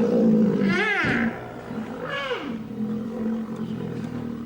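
Rhinoceros vocalising: a steady low rumbling drone, with two short high calls that rise and then fall in pitch, one about a second in and one around the middle.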